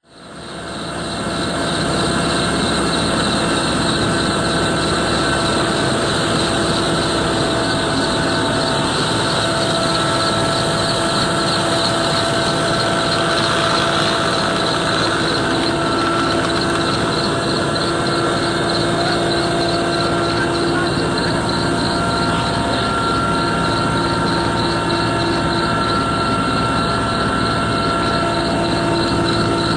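Helicopter running steadily, a mix of rotor and engine noise with steady whining tones, fading in over the first couple of seconds.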